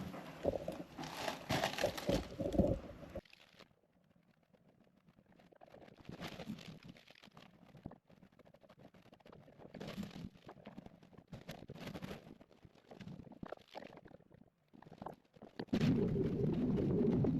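Shovel scraping and crunching into a pile of sand in short bursts, with quieter scrapes after an abrupt drop about three seconds in. A sudden steady, low-pitched noise begins near the end.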